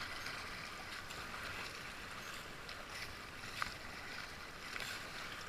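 Steady rush of whitewater river water around the kayaks, with one brief sharp click about three and a half seconds in.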